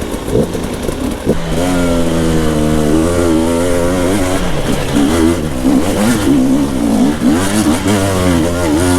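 Enduro dirt bike engine under way off-road, the revs repeatedly rising and falling as the throttle is worked.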